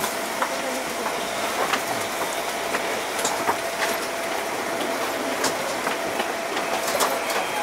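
JR Central 211 series electric train standing at a station platform with its equipment running: a steady hiss with a constant hum tone and scattered light clicks.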